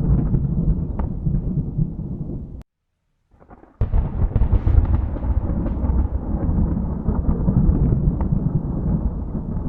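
Thunder rumbling, which cuts off abruptly to silence about two and a half seconds in. About a second later a sudden loud thunderclap starts and rolls on into a long, deep rumble.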